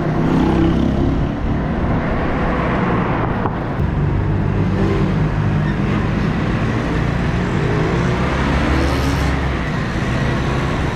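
Motorcycle engine running while riding, its pitch shifting slightly with speed, under steady wind rush on the microphone and road noise.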